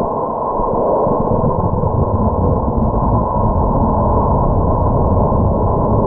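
Loud, steady rush of wind buffeting the microphone, a low, even roar with no distinct tones.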